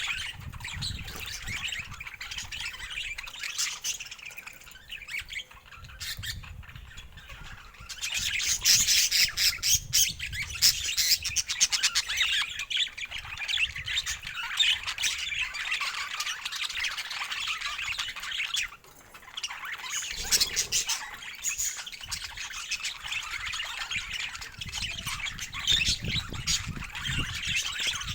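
Pet budgerigar chatter: a steady run of warbling, chirps and squawks. It gets louder and busier about a third of the way in, breaks off briefly past the middle, then carries on.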